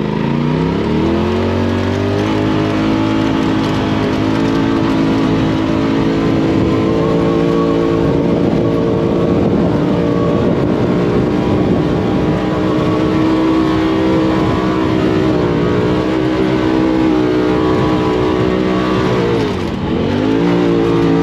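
Off-road vehicle engine revving up and held at high revs under load, dipping briefly near the end and then climbing again.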